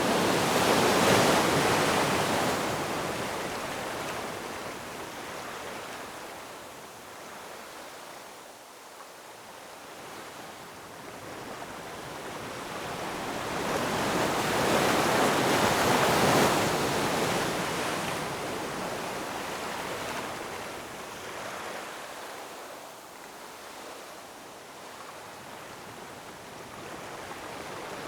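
Ocean surf: waves rush in and ebb away in slow surges, one swelling near the start and another about halfway through.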